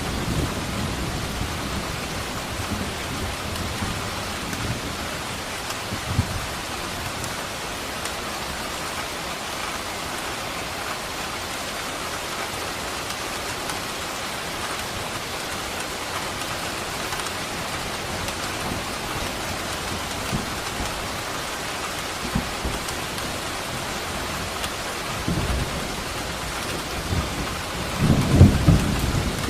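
Steady heavy rain on surfaces with low rolls of thunder, the loudest rumble building near the end.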